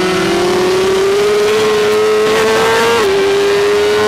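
BMW S1000RR's inline-four engine at full throttle on track, revs climbing steadily. About three seconds in the pitch drops briefly as it shifts up, then it holds high.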